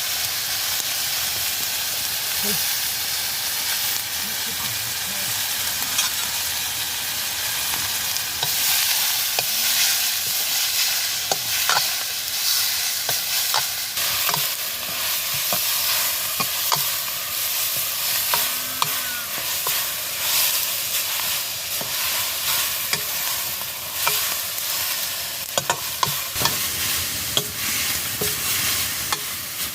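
Green vegetables sizzling as they fry in a pan, stirred with a utensil that clicks and scrapes against the pan.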